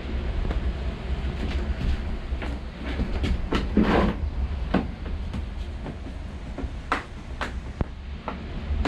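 Scattered knocks and clicks of hand work on the van's body and panels, with a louder scraping rustle about four seconds in, over a steady low rumble.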